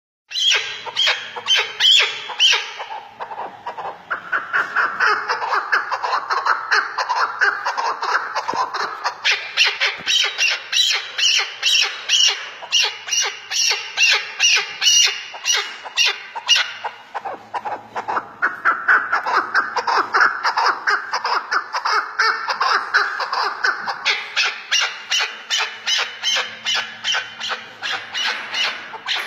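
Chukar partridge calling: a fast, rhythmic run of harsh chucking notes, about three or four a second, going on without a break.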